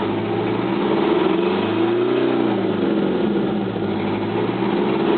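Detroit Diesel 8V-71 two-stroke V8 diesel running. About two seconds in, its engine speed rises briefly and then falls back.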